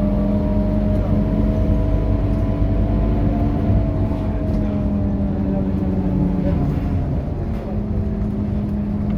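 Scania K230UB bus's five-cylinder diesel engine running steadily under way, its note rising slightly and then easing. About seven seconds in the note dips and breaks, then settles into a steady drone again.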